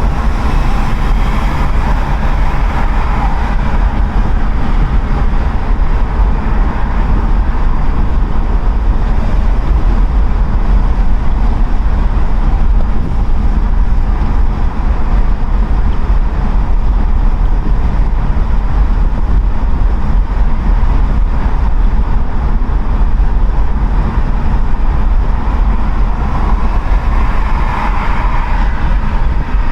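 Wind rushing and buffeting through the open windows of a car cruising at a steady 60 mph on the motorway, with road noise, heard from inside the cabin; a steady, loud rush with a deep rumble underneath.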